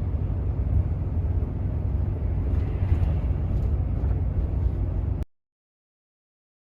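Volvo semi-truck's diesel engine running as it drives, a steady low rumble. It cuts off abruptly to silence about five seconds in.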